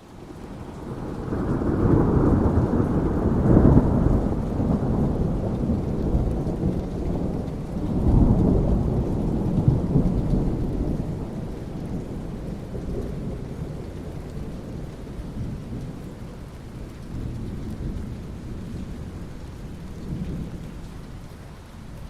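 Thunder rumbling over steady rain: a long deep rumble swells up in the first few seconds, a second rumble rolls in about eight seconds in, then it dies away, leaving the rain hiss.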